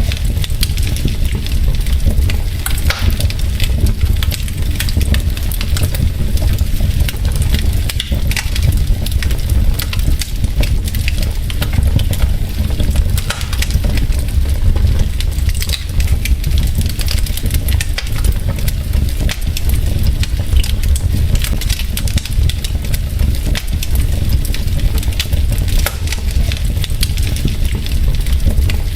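Wood logs burning in a fireplace, crackling and popping densely and irregularly over a steady low rumble from the fire.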